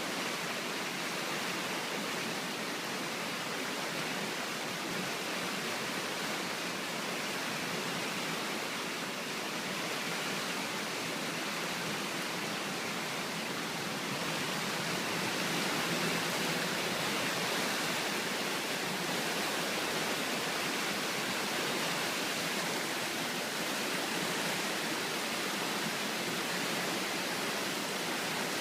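Swollen river after heavy rain, floodwater rushing past in a steady hiss and roar of moving water, a little louder about halfway through.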